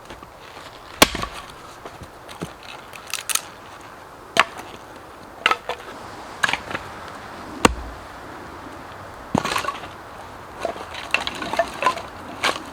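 Fallen deadwood being chopped for firewood: about ten sharp, woody strikes at uneven intervals, roughly one a second.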